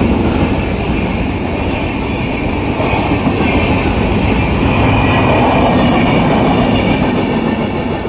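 Train running along the track, its wheels clattering steadily over the rails.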